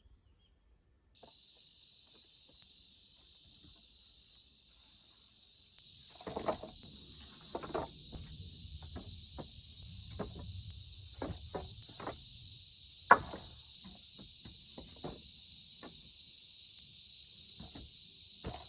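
A steady, high insect chorus starts abruptly about a second in and grows louder a few seconds later. Scattered knocks and rustles sound over it, the sharpest knock about two-thirds of the way through.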